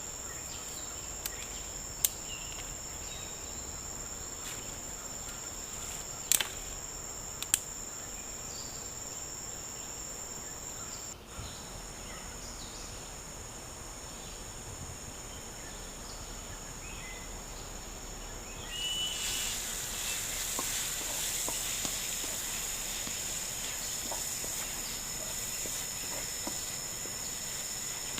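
Steady high-pitched drone of rainforest insects, with a few sharp clicks in the first few seconds and a louder, hissier layer joining about two-thirds of the way through.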